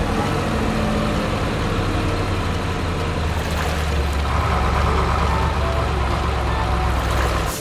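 Heavy diesel construction vehicle engine running steadily with a low drone, a higher whine joining about four seconds in.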